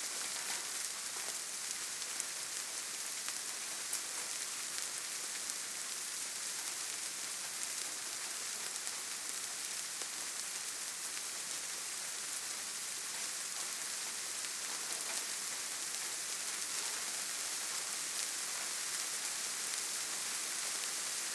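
Steady rainfall on forest foliage, an even hiss with scattered faint drop ticks.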